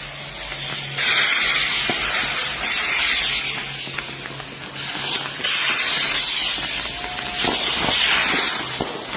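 Fireworks going off: a run of loud hissing bursts, each a second or two long, one after another, with a few sharp pops near the end.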